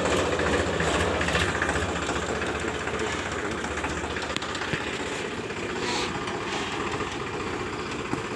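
Powertrac Euro 50 tractor's diesel engine running steadily, its deep rumble easing off about three seconds in.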